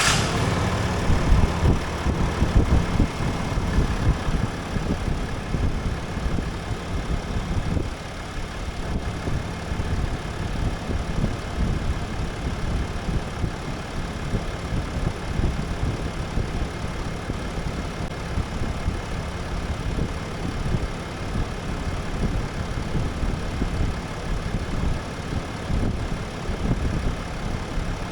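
Ram dually's 6.7 L Cummins High Output straight-six turbodiesel idling just after a start following an oil change. It runs a little louder for the first several seconds, then settles to a steady idle about eight seconds in.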